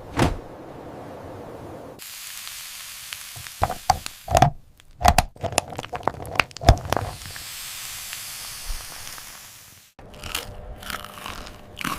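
Crisp pizza crust being sliced, giving a run of sharp crunches and cracks a few seconds in, over a steady hiss that cuts off suddenly near the end.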